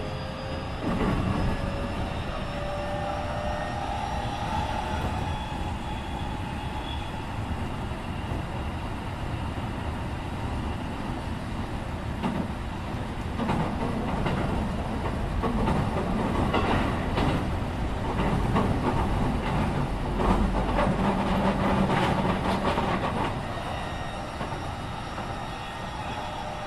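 Keikyu 1500 series electric train with Mitsubishi IGBT-VVVF traction equipment, heard from inside the car: the inverter-motor whine rises in pitch for the first few seconds and then fades, leaving steady wheel-on-rail rolling noise. In the middle stretch there is a run of clattering knocks from the wheels passing over rail joints.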